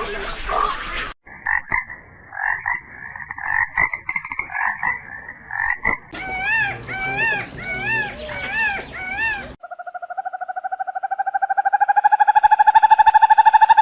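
A run of animal calls in separate clips: a series of short repeated calls, then repeated rising-and-falling calls, then a long fast trill that swells in loudness.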